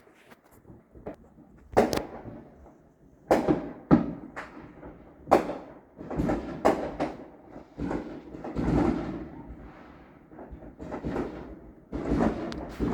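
Fireworks going off: about a dozen sharp bangs at irregular intervals, each dying away.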